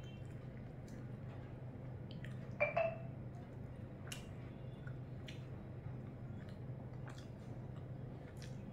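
Close, wet chewing and mouth clicks from eating rice and fish curry by hand, with soft squishes of rice being mixed in the fingers, over a steady low hum. One brief, louder sound comes about two and a half seconds in.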